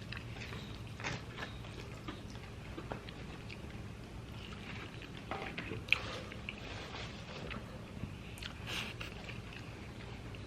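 Quiet chewing of fried chicken, with scattered soft mouth clicks and one sharper click about six seconds in, over a low steady hum.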